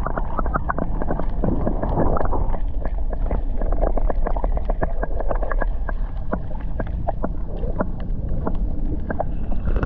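Recording made with the microphone under seawater: a dull, muffled rumble with a dense run of small crackles and pops, the water and sand moving around the submerged camera.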